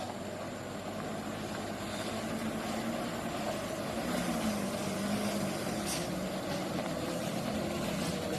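Truck engine running steadily, slowly growing louder.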